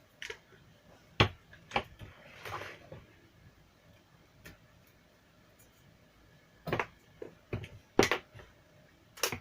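Scattered sharp clicks and knocks of small tools and plastic speaker parts being handled while a JBL Charge Bluetooth speaker is taken apart. There are a few in the first two seconds with a brief rustle after them, then a quiet stretch, then a denser run of knocks near the end.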